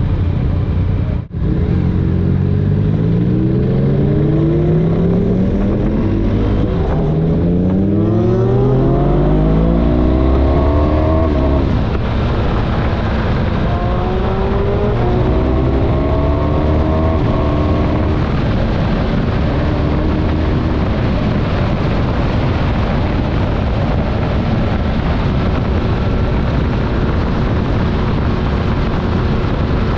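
Motorcycle engine pulling up through the gears, its pitch rising and dropping back with each change for the first dozen seconds, then running steadily at cruising speed over a constant rush of wind and road noise. The sound cuts out briefly about a second in.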